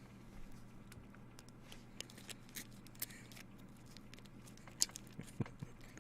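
Trading cards being handled, with soft scattered clicks and rustles as the cards are flipped and set down, over a faint steady hum.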